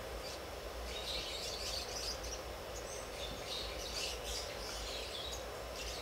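Birds chirping in the background: clusters of short high chirps, several a second, over a steady low hum.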